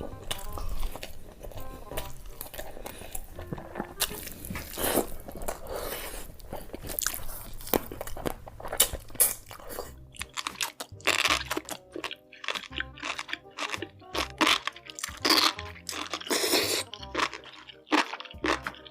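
Close-miked crunching and chewing of crunchy food, many sharp crunches in quick succession, with background music under it that becomes clearer from about halfway through.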